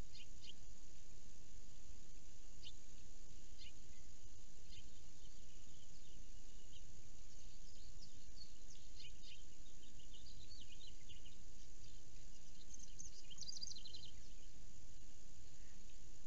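Short, high bird chirps scattered over a steady background hiss, with a quick trill of repeated notes about three-quarters of the way in.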